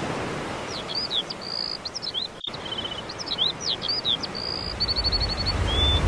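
Small birds chirping and singing: many short slurred whistles and quick rattling trills, with a very brief dropout about halfway through. Near the end a low engine rumble of an approaching vehicle starts and grows.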